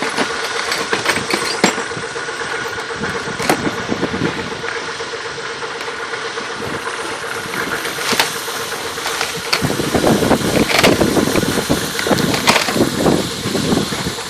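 Knocks, clicks and scraping from prying a stuck part of a boat transom loose with a big screwdriver, over a steady motor hum. The knocking grows busier and louder near the end.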